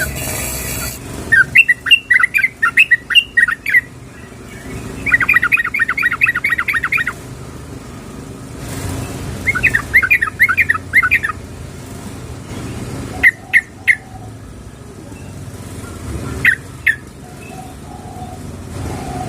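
Yellow-vented bulbul (trucukan) calling, labelled as a female calling a male. There are three quick, bubbling trills of rapid notes, then a few sharp single and paired notes near the end.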